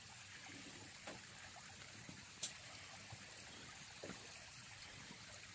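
Faint campfire crackling: a low steady hiss of burning wood with three short sharp pops spread through it.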